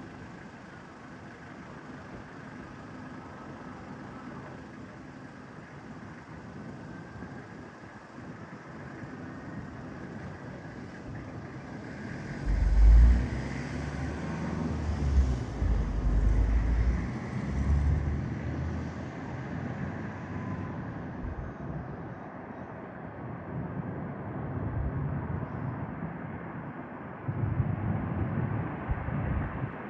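Jet airliner engines running with a steady rush and faint whine. The higher part of the sound fades out about two-thirds of the way through. Low rumbling thumps of wind buffeting the microphone come in for several seconds around the middle and again near the end.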